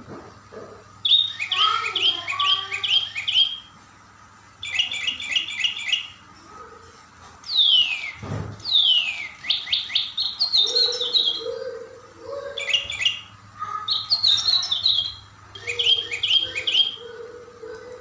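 A songbird singing in short bursts of quick repeated chirping notes, phrase after phrase with brief pauses, with a few long sweeping whistles about eight seconds in.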